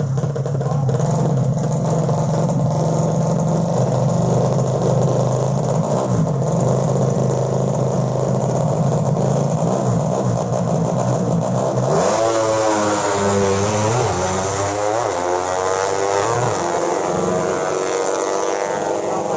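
Drag-race underbone motorcycle engines running steadily with a deep low note. About twelve seconds in, they break into hard revving, the pitch climbing and dropping several times.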